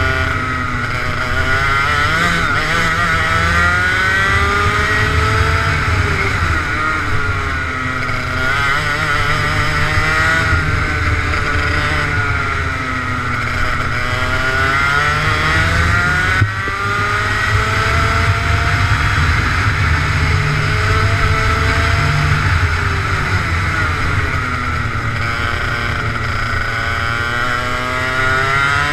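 Racing kart engine at full throttle, its pitch climbing on the straights and dropping back off the throttle into corners, again and again. A single sharp knock comes about halfway through.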